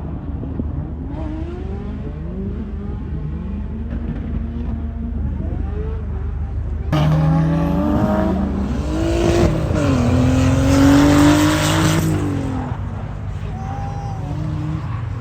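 Drift car engines revving up and down in repeated rising and falling glides. About seven seconds in it turns suddenly louder: one engine climbs in pitch over a hiss of tire squeal for several seconds, then eases off.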